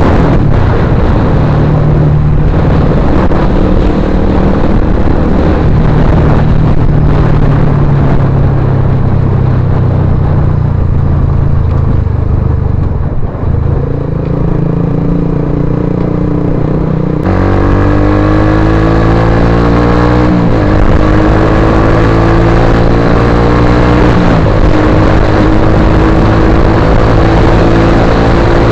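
Suzuki GSX-R150's single-cylinder four-stroke engine running loud through an aftermarket Akrapovic-style slip-on exhaust, the pitch rising and falling with the throttle. About two-thirds of the way through the sound changes abruptly, then the engine note climbs and drops back several times as it accelerates.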